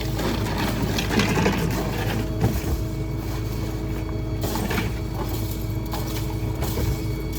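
Small rear-load garbage truck running steadily with a humming tone, with clattering knocks of debris being handled about a second in and again near five seconds.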